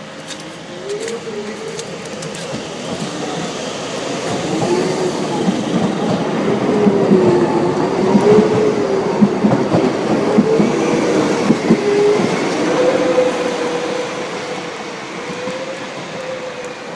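Docklands Light Railway train running into the station, with a wavering whine and wheels clicking over the rail joints as it comes alongside. It grows louder, is loudest as it passes close, then eases off to a steady whine near the end.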